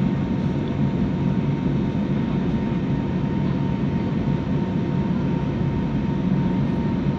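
Steady roar of engines and airflow heard inside an airliner's cabin as it climbs after takeoff, with a faint steady whine above it.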